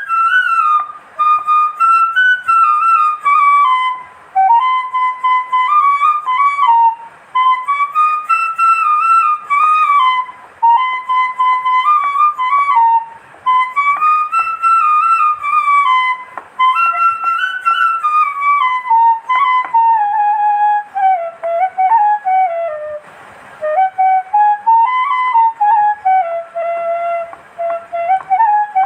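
Background music: a solo flute playing a slow melody that slides between notes.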